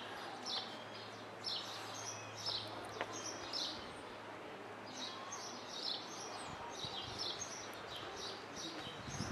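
Small birds chirping, short high calls repeated roughly once or twice a second over quiet outdoor background noise.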